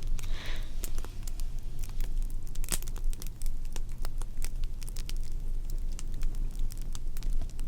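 Fire crackling, with irregular sharp pops and snaps over a low steady rumble.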